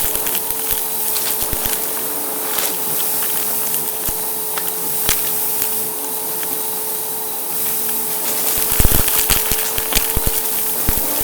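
Brushroll vacuum cleaner running, a steady motor drone with a constant whine, while crunchy debris crackles and clicks as it is sucked up; the crackling gets busier about eight seconds in.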